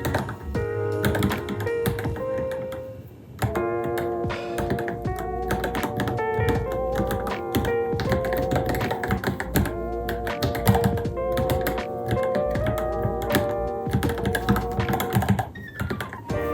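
Rapid typing on a Varmilo Minilo mechanical keyboard, a dense run of key clicks, under background music with a wavering melody that drops out briefly a few seconds in.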